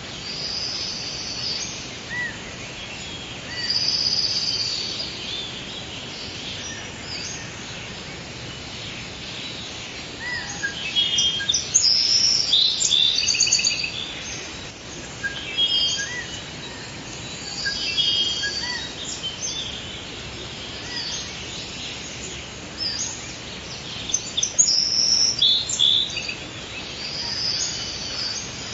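Forest ambience: several birds singing and calling in short overlapping phrases over a steady background hiss, busiest about a third of the way in.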